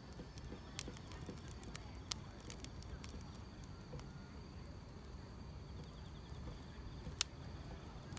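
Wood fire crackling, with scattered sharp pops over a low steady rumble; the loudest pop comes about seven seconds in. Grass insects chirp steadily in the background.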